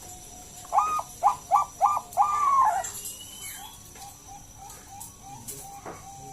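Zebra dove (perkutut bangkok) cooing: one loud phrase about a second in, with a first note, three quick short notes and a longer drawn-out final coo. Softer short coos repeat underneath.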